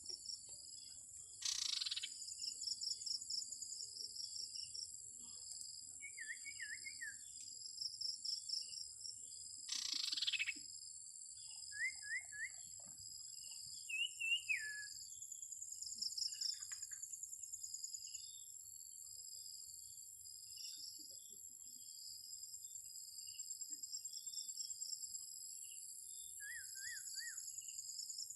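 Steady high, pulsing insect chorus, with a small bird giving short chirps in quick groups of three or so several times. Two louder, sharp downward-sweeping calls come about two seconds in and again about ten seconds in.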